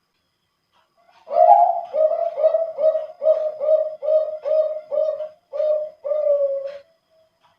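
Male Bangkok-strain zebra dove (perkutut) cooing its full song: after a brief pause, a quick run of about eleven low, thick-voiced coo notes at roughly two a second, ending on a longer drawn-out note.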